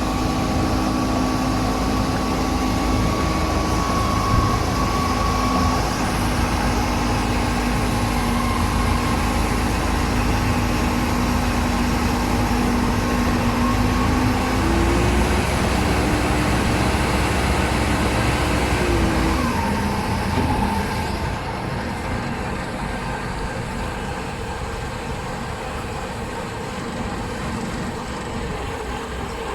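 Self-loading concrete mixer's engine running steadily under load, its whine shifting up in pitch about halfway through and dropping back a few seconds later; the noise eases off for the last third.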